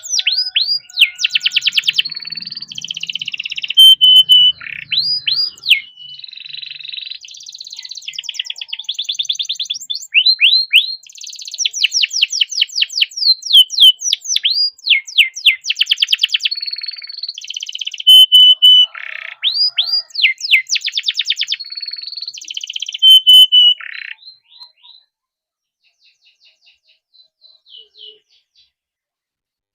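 Domestic canary singing a long, continuous song of rapid rolling trills, fast runs of down-slurred notes and held whistled tones. The song breaks off about 24 seconds in, leaving a few faint notes before it stops.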